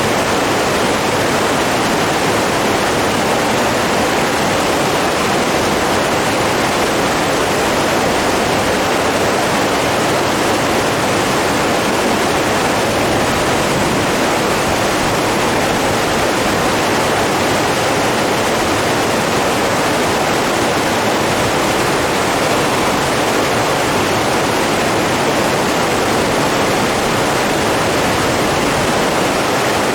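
Steady rushing water running at an even, unbroken level, with no waves or gusts.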